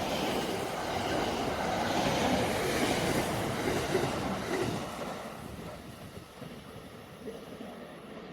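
A train passing close by on the rails, its running noise loud for the first few seconds and then fading away as it moves off.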